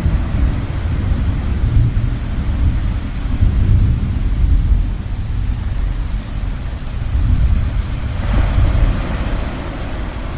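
Low rolling rumble of thunder over a steady hiss of ocean waves. About eight seconds in, a brighter wash of water rises as the rumble eases.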